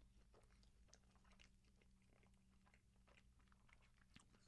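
Faint close-miked chewing of a soft stuffed grape leaf: irregular small wet mouth clicks.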